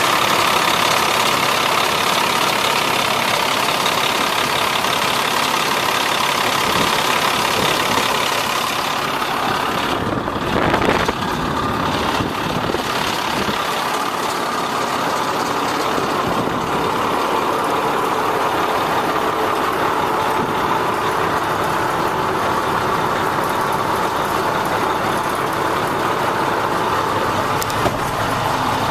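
Diesel engine of a 1997 International 2674 crane truck running steadily at idle, with a brief louder noise about ten seconds in.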